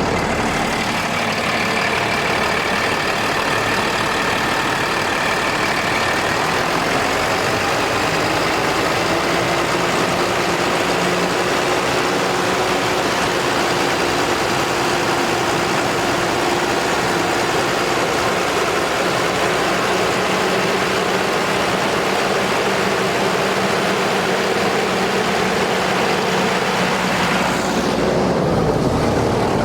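Cummins 6.7L ISB six-cylinder diesel of a Ford F750 truck idling steadily, its pitch creeping up slightly about seven seconds in.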